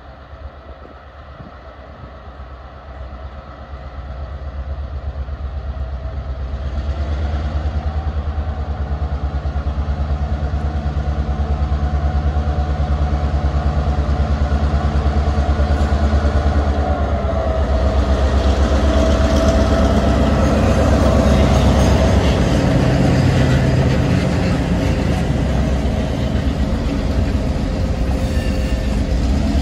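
Diesel locomotive running as it approaches, its engine hum growing steadily louder until it passes close by. Then loaded covered hopper cars roll past, their wheels clicking and grinding on the rails.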